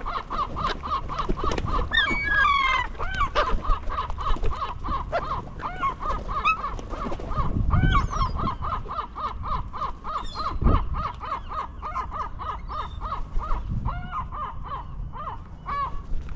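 A flock of gulls squabbling over food in a feeding frenzy: a dense run of short squawking calls, several a second, overlapping, with higher cries mixed in.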